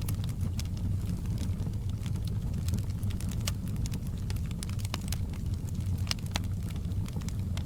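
Logs burning in a fireplace: irregular sharp crackles and pops over a steady low rumble.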